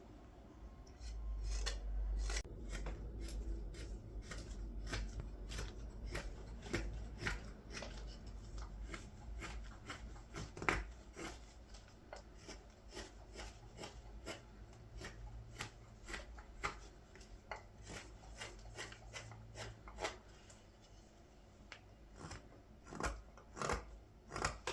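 Blade carving green wood: a run of short, irregular slicing strokes as shavings are cut from a ladle blank, with one louder stroke about halfway through.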